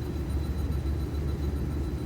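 Steady low rumble of running machinery.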